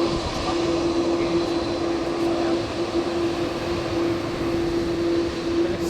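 Steady airliner engine noise with one constant humming tone.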